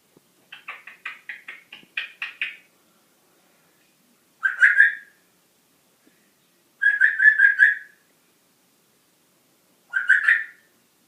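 A pet animal calling: a quick run of about ten chirps, then three short, high trilled calls a few seconds apart.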